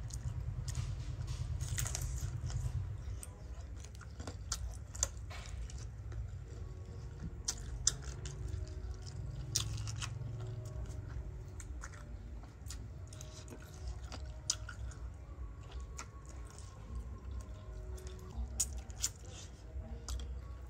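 Close-up chewing of pickled chicken feet: crunching skin and cartilage with many sharp wet clicks, over a low steady rumble.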